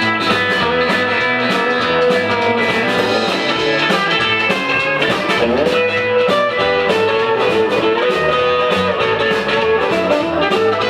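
Instrumental break of a rockabilly song: electric guitar playing lead over a steady drum beat, with a bent or sliding guitar note about halfway through.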